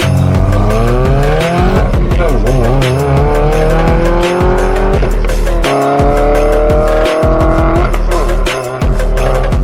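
Subaru WRX VB's turbocharged flat-four running through a de-catted valvetronic exhaust, accelerating twice: its pitch climbs for about two seconds, wavers, then climbs again from about six seconds in until near eight seconds. Background music with a steady beat plays throughout.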